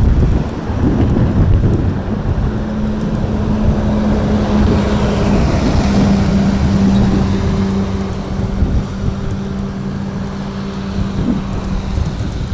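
Airbus A321neo's Pratt & Whitney geared turbofan engines on takeoff, a loud jet rush with a steady hum whose pitch drops about halfway through as the aircraft passes. Wind buffets the microphone.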